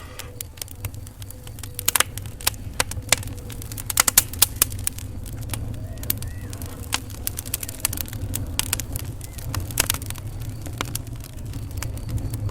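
Wood fire in a fireplace crackling, with sharp pops bunched about two to four seconds in and again near ten seconds, over a low steady rumble of the flames.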